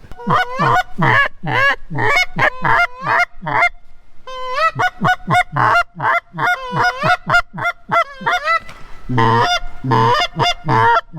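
Geese honking: rapid strings of two-tone honks, each note breaking upward in pitch, in three runs with short pauses about four and nine seconds in.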